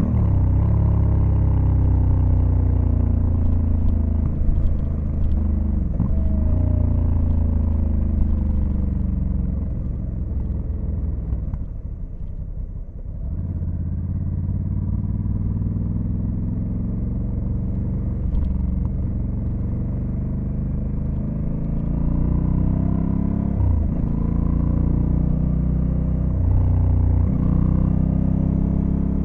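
Honda Africa Twin CRF1100L's parallel-twin engine heard from the rider's seat while riding. Its pitch falls over the first few seconds, eases to a low, quieter run around the middle, then climbs again under acceleration, broken by several quick gear changes.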